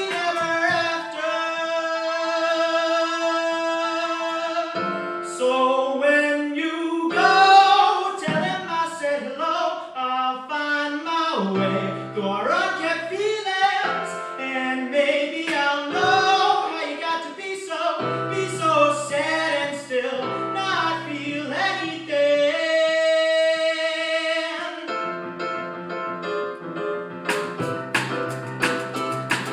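A solo voice singing a song with instrumental accompaniment, holding long notes and moving through quick melodic runs. Sharp repeated chord strokes come in near the end.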